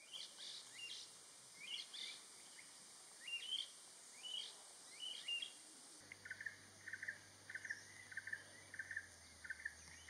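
Faint forest birdsong. Scattered short chirps that rise and fall give way, about six seconds in, to an even series of short repeated notes at about two a second.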